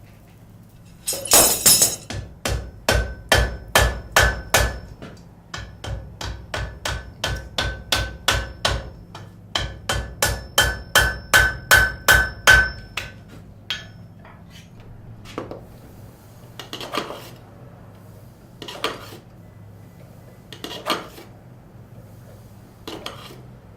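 Blacksmith's hand hammer striking hot iron on an anvil, setting a forge weld. After a loud burst of noise about a second in, quick regular blows at about three a second ring off the anvil; after a pause near the middle, slower single blows follow every couple of seconds.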